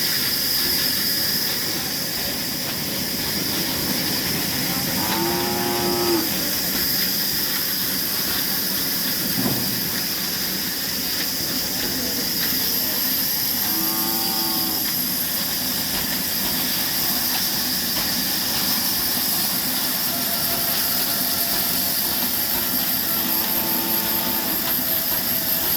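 Kala engine, a slow single-cylinder diesel, running steadily at about 300 rpm. Three short animal calls stand out over it, about 5, 14 and 24 seconds in.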